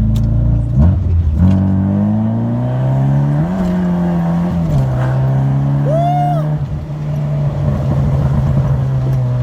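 Straight-piped 2-litre engine of a VW Golf Mk1, with a stock 272 cam, running under way. The revs climb, jump and drop back a few times in the first five seconds, then hold steady. A brief high rising-and-falling tone comes about six seconds in.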